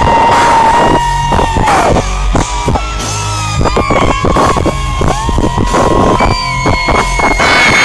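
Live pop-rock concert music, loud: a woman singing long held notes over electric guitar and drums.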